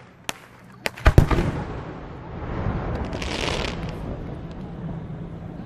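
Aerial fireworks bursting: a couple of sharp pops, then a loud boom with a low rumble about a second in, followed by a hissing, crackling stretch around three seconds in.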